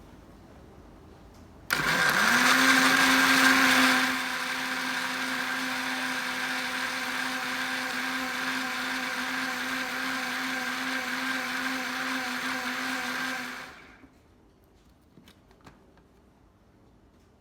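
Electric kitchen grinding appliance switched on about two seconds in: its motor spins up quickly to a steady hum with a high grinding whir over it. It runs loudest for the first couple of seconds, settles a little quieter, and after about twelve seconds is switched off and winds down.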